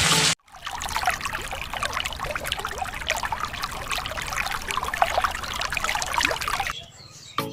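Water trickling and splashing: a dense, continuous run of small drips and splashes that stops shortly before the end.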